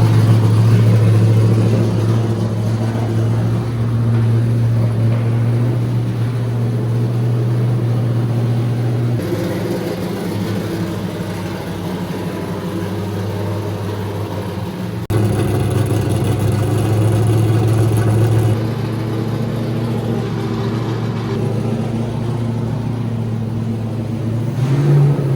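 Nissan S14 drift car's engine running steadily at idle, a low even note that shifts abruptly a few times.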